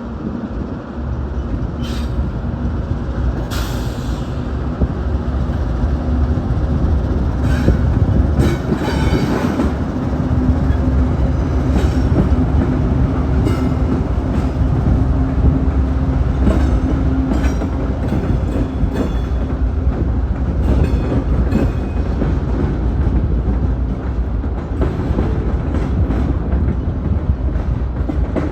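Freight train rolling past: a steady low rumble from the locomotives and cars, with the steel wheels clicking and giving short high squeals on the rails.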